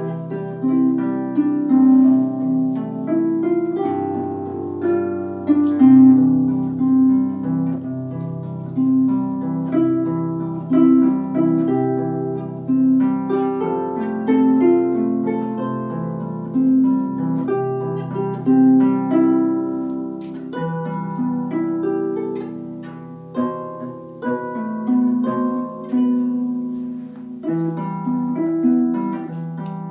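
A harp played solo: plucked melody notes ringing over sustained low bass notes, in a steady flowing rhythm.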